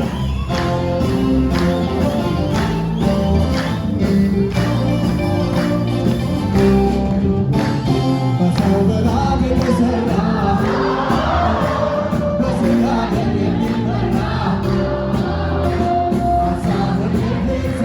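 Ethiopian gospel song (mezmur) with singing and a backing choir over a steady beat.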